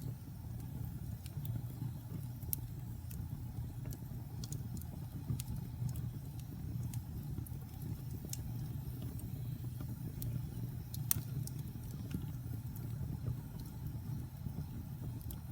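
Fire burning in a fireplace: a steady low roar of flames with scattered sharp crackles and pops, one louder pop about eleven seconds in.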